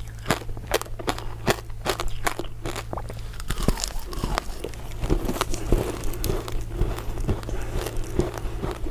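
Close-miked crunching and chewing of a crisp crystal ice dessert: a rapid run of sharp crunches, joined by wetter chewing noise from about halfway in.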